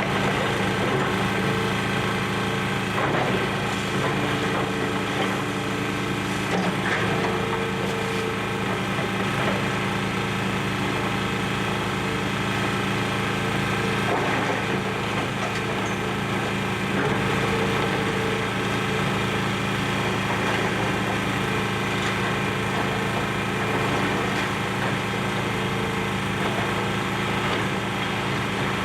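Hydraulic excavator's diesel engine running steadily, with a few sharp cracks and crunches of building material being broken apart.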